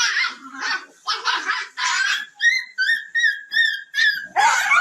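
A dog yipping and whining in a rapid string of short, high calls, with a run of clearer pitched whines near the middle.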